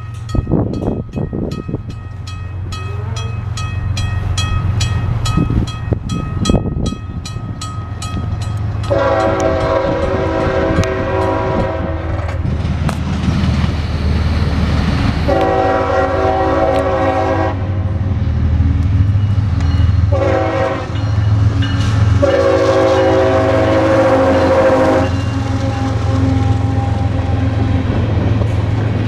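A CSX freight train's diesel locomotive approaches with a growing low rumble and sounds its horn in the grade-crossing pattern: long, long, short, long. Before the horn, a bell rings in rapid even strokes, typical of a grade-crossing bell.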